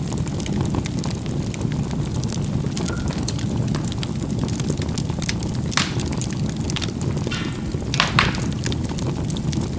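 Charcoal burning in a fireplace: a steady low rush of flame, with sharp crackling pops from the coals, the loudest about six seconds in and again about eight seconds in.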